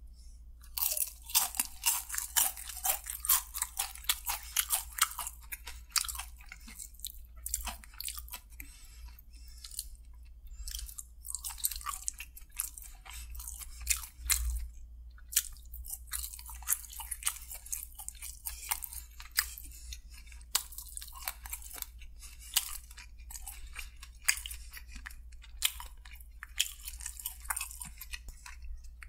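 Close-up chewing and crunching of crispy fried chicken coating: crackly bites in quick runs, starting about a second in, with short pauses between the runs.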